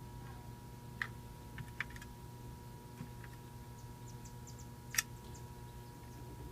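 Sparse light clicks and taps of hand tools on metal, about four in all with the sharpest about five seconds in, over a faint steady electrical hum.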